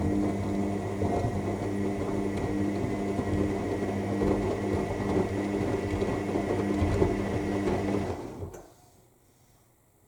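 AEG 7000 Series front-loading washing machine in its main wash, the drum motor turning the drum with a steady hum and a faint high whine as the laundry tumbles. The drum stops abruptly about eight and a half seconds in, the pause between turns of the wash action.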